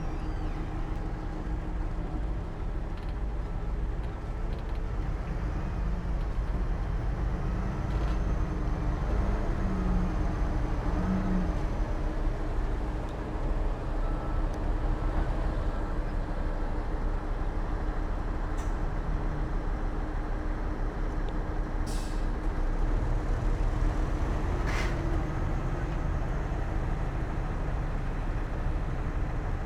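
Heavy diesel earthmoving machinery running steadily with a low rumble and a held drone. Two brief sharp, hissing or clanking sounds come near the end.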